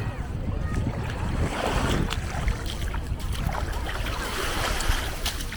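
Wind buffeting the microphone with a steady low rumble, over small waves washing onto the beach in swells.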